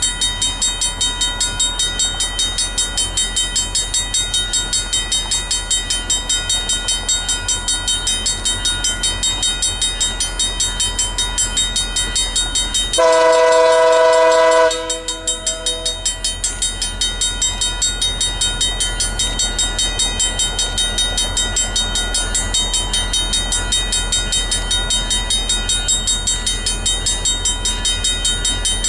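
A train running past with a steady, rhythmic clatter, about three beats a second. About halfway through, one loud multi-note horn blast sounds for almost two seconds.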